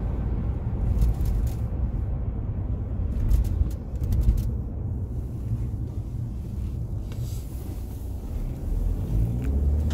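Steady low rumble of a car's engine and tyres on the road, heard from inside the moving car, with a few light knocks.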